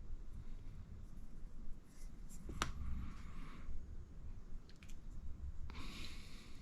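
Small RC shock parts (O-rings and caps) being handled on a workbench: a sharp click a little over two and a half seconds in with brief rustling after it, then a longer rustle near the end.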